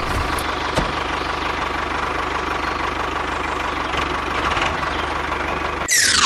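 Engine idling steadily with an even low chug, ending in a short falling swoosh near the end.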